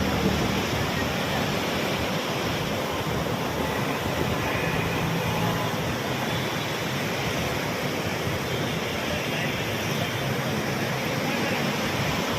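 Steady rushing of a river in flood, fast-moving floodwater making an even noise with no break.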